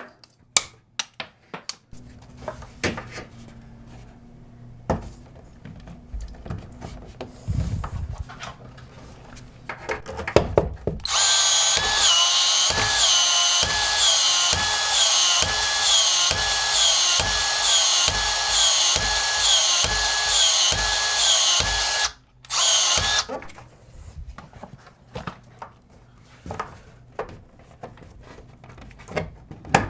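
A power drill runs for about eleven seconds, its pitch dipping and recovering over and over, then gives one short final burst. Scattered clicks and knocks of tool handling come before and after it.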